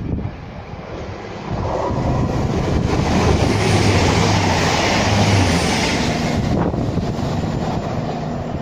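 A train passing through the station, the noise building about a second and a half in, loudest in the middle and easing off towards the end, with wind buffeting the microphone.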